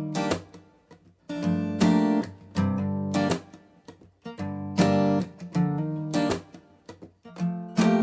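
Background music: strummed acoustic guitar chords in repeating phrases.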